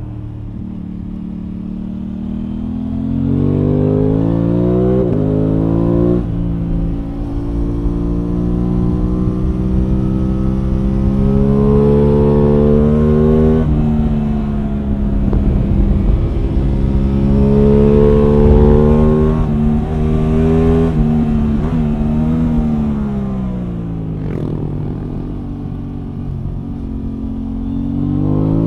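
Aprilia Tuono 660 Factory's parallel-twin engine heard from on board, pulling up through the revs and dropping abruptly at gear changes, a few seconds in and again around the middle. It holds steady speed for stretches, winds down for several seconds near the end, then picks up again.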